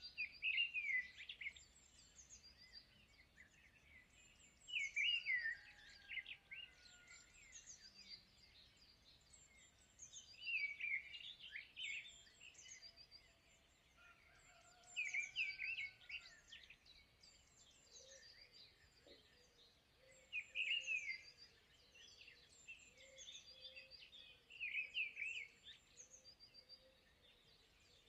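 Birdsong: one bird repeats a short, chirpy song phrase about every five seconds, with fainter chirps from other birds in between.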